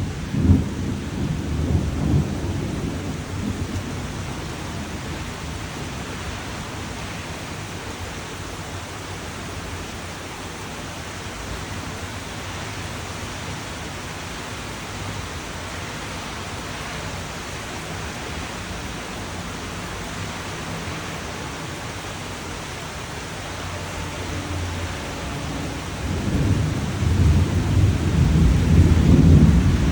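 Steady rain falling, with thunder rumbling low in the first few seconds and again, louder, over the last few seconds.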